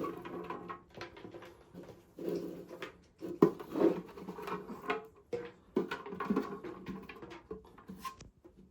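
Scattered small handling noises: soft knocks, clicks and rustles, one after another with short pauses between.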